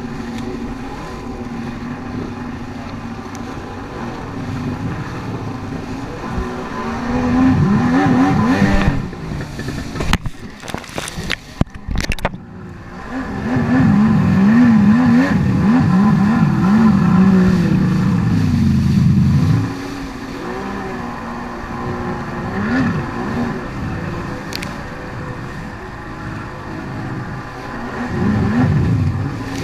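Two-stroke personal watercraft engine revving up and down hard while riding surf, with surges about a quarter of the way in, a long one through the middle and another near the end. Around a third of the way in the sound breaks up and cuts out in choppy bursts.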